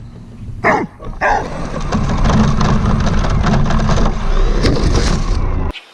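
A dog barks twice, then a radio-controlled truck runs hard over the ground for about four seconds, its motor and tyres making a loud rattling noise that cuts off suddenly near the end.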